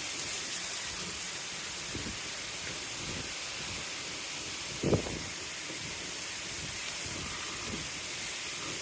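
Heavy rain pouring down in a steady hiss, with a brief thump about five seconds in.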